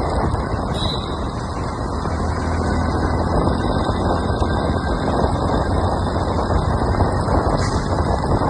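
Hero Splendor motorcycle on the move, its single-cylinder engine running steadily under a dense rush of road and wind noise.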